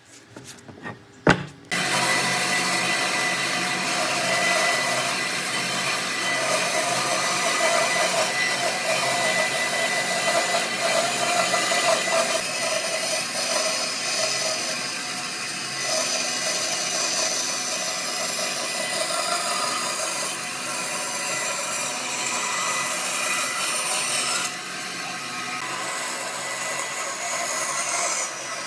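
A power tool working wood, switched on about two seconds in after a sharp knock, then running steadily with a loud, noisy whir.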